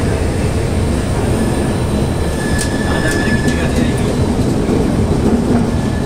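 Train running on the rails: a steady, loud rumble with a high, thin whine that fades out and comes back, and a few faint clicks near the middle.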